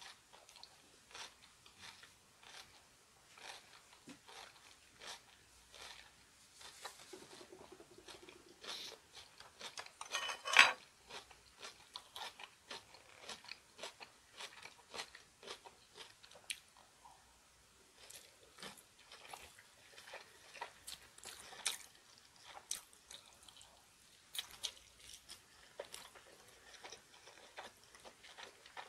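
Close-up chewing and crunching of kimchi and rice, with many short crunches and one much louder crunch about ten seconds in.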